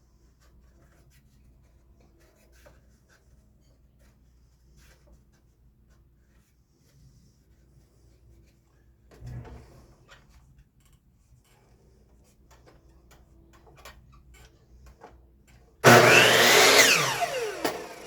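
Faint handling clicks of wood being moved, then near the end a loud power-saw cut through a wooden fence picket, the pitch falling as the blade winds down.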